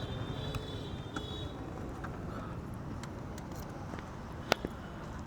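Steady low rumble of vehicles, with a faint high whine fading out in the first second or two and one sharp click about four and a half seconds in.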